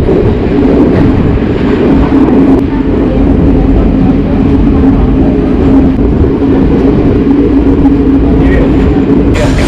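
A vehicle's engine runs at a steady drone, with rumbling noise beneath it, heard while riding along. A brighter hiss comes in near the end.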